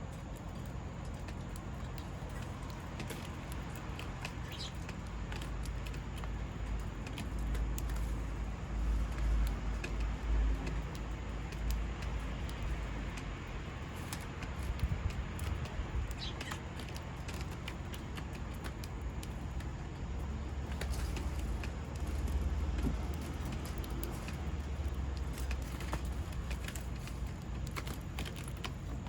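Steady outdoor background noise with a low rumble that swells twice, about a third of the way in and again past two thirds, and a few faint, short chirps, typical of sparrows near a bird feeder.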